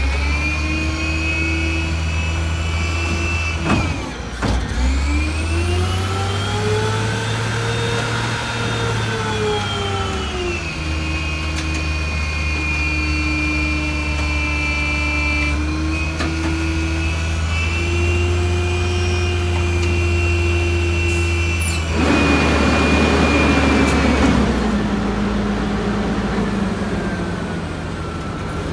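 1989 White/GMC Xpeditor refuse truck's diesel engine held at high revs while it packs, swelling up and back down in pitch over several seconds early on, with a sharp bang about four seconds in. About 22 seconds in, a loud rushing hiss rises over it for a couple of seconds, then the engine drops to a lower, steadier speed.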